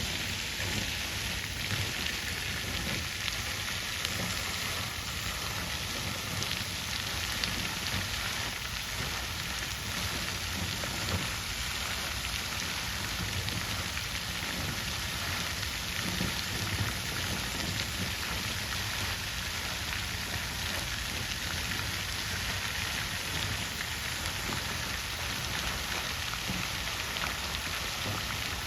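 Water from a fountain splashing and trickling steadily into a pool, an even hiss of falling water.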